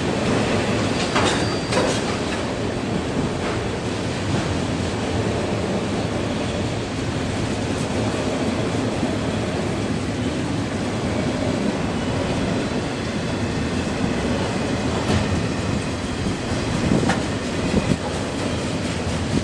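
CSX mixed freight train's autorack cars rolling past: a steady rumble of steel wheels on rail with clickety-clack over the rail joints and a few sharp clanks.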